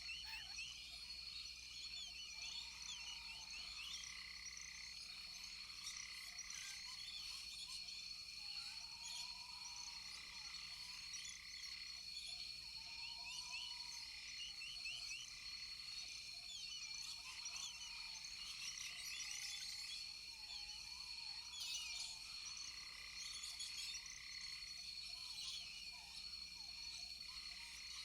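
A rainforest chorus of frogs and insects. A steady high insect drone runs under many quick, high chirps, with a short note repeating about every two seconds and a lower, arched call coming every few seconds.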